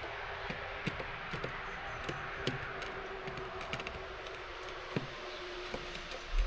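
Steady rain hiss at a garden bird feeder, with scattered light irregular taps and clicks of birds and drops on the feeder, and one louder low thump near the end.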